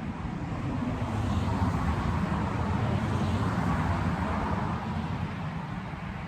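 A passing motor vehicle's steady rumbling noise, swelling over the first couple of seconds and fading toward the end.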